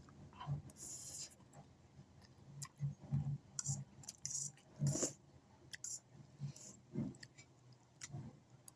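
A person chewing a mouthful of noodles and rice close to the microphone, with irregular small clicks and smacks.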